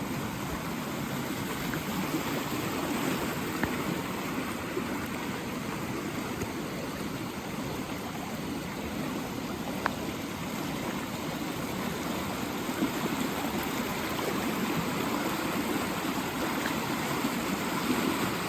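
Rain-swollen creek rushing steadily, running far higher than its usual trickle after heavy rain.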